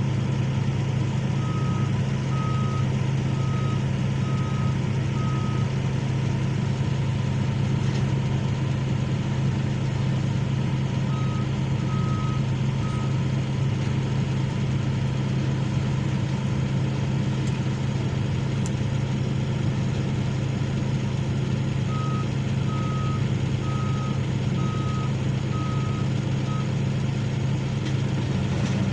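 Heavy diesel excavator engine running steadily, with a travel or backup alarm beeping in three runs of evenly spaced beeps, roughly one every 0.8 seconds: one run starting about a second and a half in, a short run about a third of the way through, and a longer one about three quarters of the way through.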